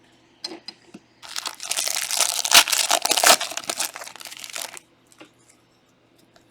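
Foil trading-card pack wrapper crinkling loudly for about three and a half seconds as it is opened, after a few light clicks of card handling.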